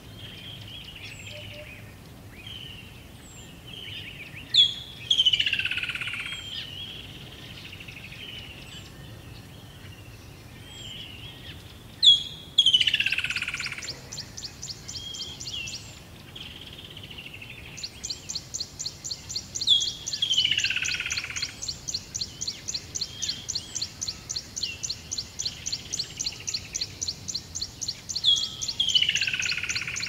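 Birds singing: a loud call sliding down in pitch comes every seven or eight seconds over softer repeated chirps. An evenly pulsed high chirring, about three pulses a second, sounds briefly before halfway and then runs steadily through the second half.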